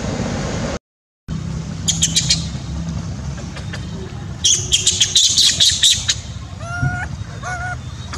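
Birds chirping in quick clusters of sharp, high chirps, with a few short, lower calls near the end. This follows a steady outdoor hiss that cuts off abruptly less than a second in.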